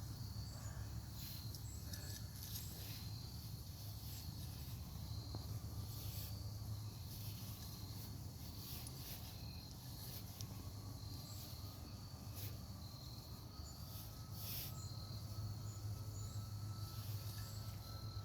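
Insects trilling steadily in a pulsing high line, with scattered short scrapes and rustles of soil being dug.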